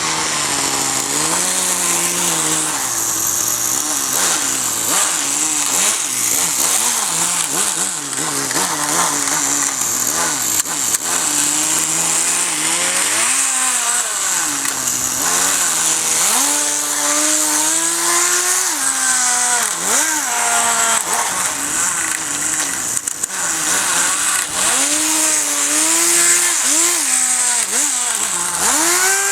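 Kyosho Nitro Blizzard RC tracked snow vehicle's small nitro model engine running loud and buzzing, its pitch rising and falling again and again as the throttle is opened and closed.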